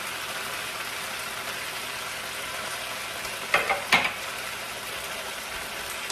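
Beef cubes and diced onion sizzling in a hot frying pan, a steady hiss, with two sharp clacks about three and a half seconds in.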